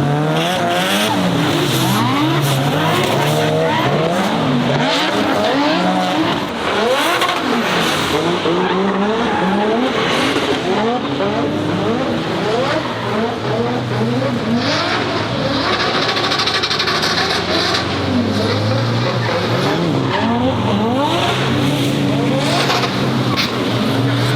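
Nissan Silvia S15's turbocharged Toyota 2JZ straight-six revving up and down hard while drifting, with tyres squealing and skidding. The engine settles into a steadier, held pitch over the last several seconds.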